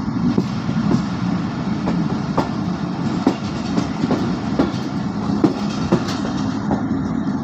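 Passenger train running on the line, a steady rumble of wheels on rail with irregular clacks as the wheels pass over rail joints.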